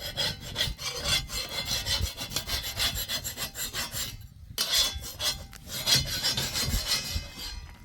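Rapid, repeated rasping strokes, like rubbing or scraping, with a brief pause about four seconds in before they start again.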